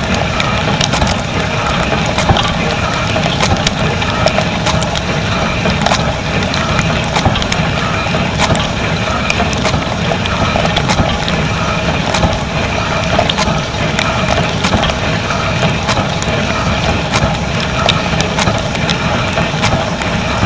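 Dishwasher running, heard from inside the tub: water spraying and splashing against the dishes and walls over a steady pump hum, with frequent small ticks of water striking.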